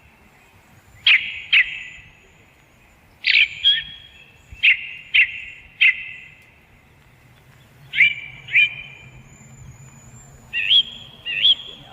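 A bird calling in loud, short, sharp notes, mostly in pairs or threes a few seconds apart, each note ringing on briefly. A faint, high, thin twittering runs above them.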